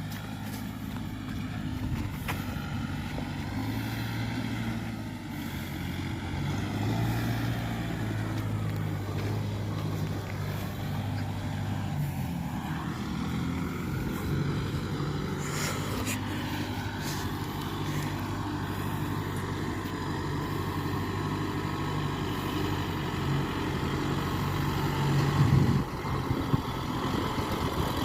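Tractor's diesel engine running steadily under way. Its note wavers a little, and there is a brief louder surge near the end.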